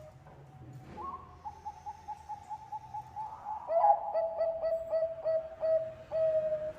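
Bangkok-strain zebra dove (perkutut) cooing: a fast rolling trill about a second in, then a run of short staccato coos, about three a second, ending in a longer note.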